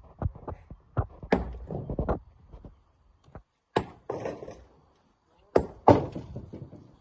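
Rocks knocking together in hand rock-mining work: a series of irregular heavy knocks and clatters, some trailing off in a short rattle. The loudest come a little over a second in, near four seconds, and twice in quick succession near six seconds.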